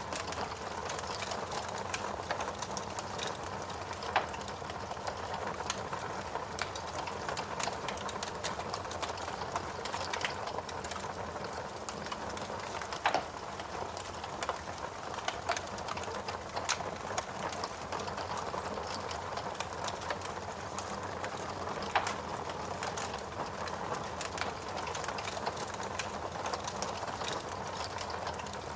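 Wood fire crackling in a fireplace: a steady hiss of burning packed with small snaps, and a few louder pops at about 4, 13 and 22 seconds in.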